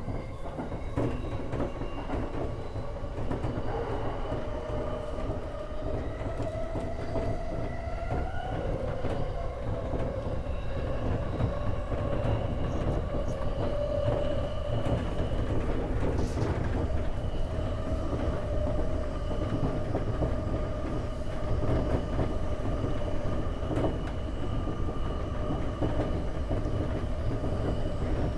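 E231-1000 series electric commuter train running along the line, heard from on board: a steady rumble of wheels on rail with steady whining tones over it and a few faint rail clicks. The sound grows slightly louder partway through.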